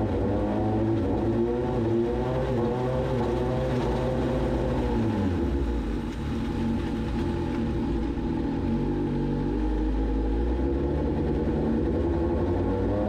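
Suzuki GSX-S1000's inline-four engine running with the bike on a rear stand, its pitch rising and falling. It drops back briefly about six seconds in, runs low for a few seconds, then picks up again near the end.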